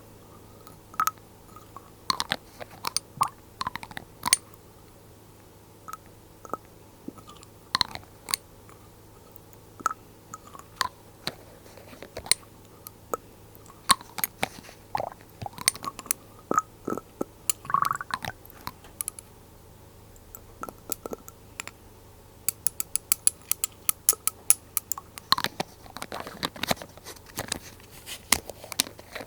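Glass dropper bottles being handled: irregular light glass taps and clicks, with a quick run of rapid ticks about three quarters of the way through.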